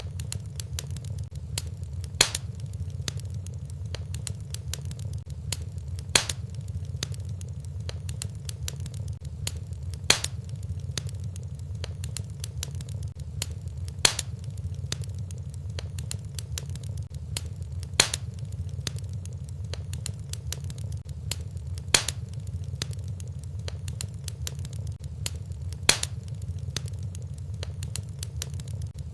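Wood fire in a fireplace crackling over a steady low rumble, with many small crackles and a loud sharp pop about every four seconds.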